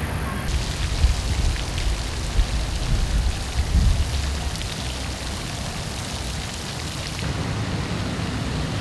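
Pond ambience: a steady patter of water, like rain on the surface, with wind rumbling on the microphone that eases about halfway through.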